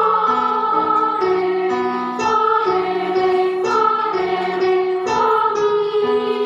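Children's choir singing a song through, holding each note and moving step by step from one sustained pitch to the next, likely singing the note names of the melody as a note test.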